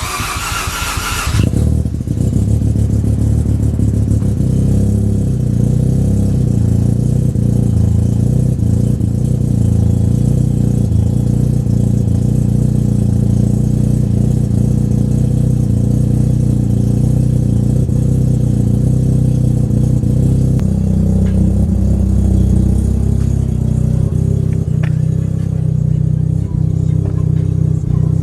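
Single-turbo 13B twin-rotor rotary engine of a 1993 Mazda RX-7 FD3S idling through a 3.5 in Border Racing Burnout exhaust, starting with a short bright, raspy burst that reads as the engine catching. About 20 seconds in the idle steps down to a lower, steadier note as it settles.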